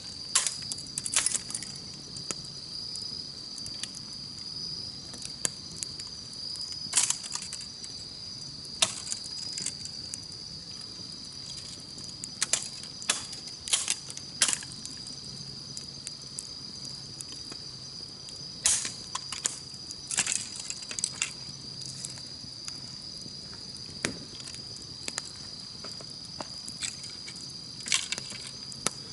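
Campfire crackling: irregular sharp pops and cracks of burning wood, some in quick clusters, over a steady high-pitched chirring of insects.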